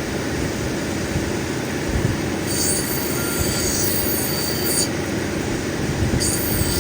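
Lapidary cabbing machine running steadily as an opal is ground on its wheel, with two high-pitched squeals: the first about two and a half seconds in, lasting about two seconds, the second starting near the end.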